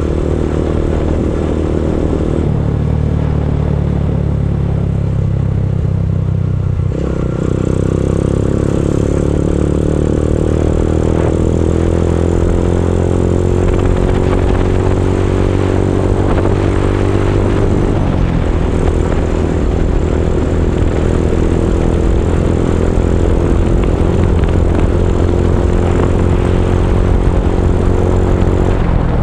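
Motorcycle engine running loud through an aftermarket Abimanyu exhaust, a steady roar whose pitch steps up and down a few times as the engine speed changes, with a slow rise in the middle.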